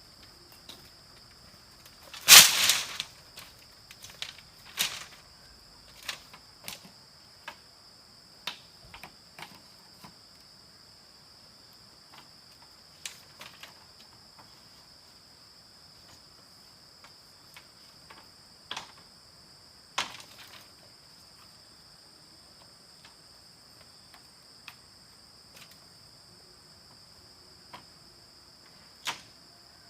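Steady high-pitched drone of insects, with scattered sharp knocks and taps at irregular intervals; the loudest knock comes about two seconds in.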